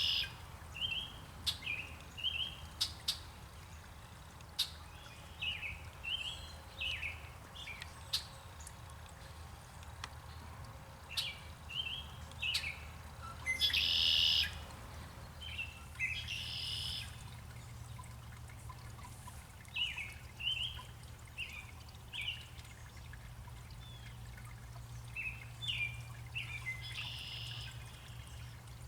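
Birds chirping in short two- and three-note phrases that repeat every second or so, with a few sharp clicks and brief louder hissing bursts.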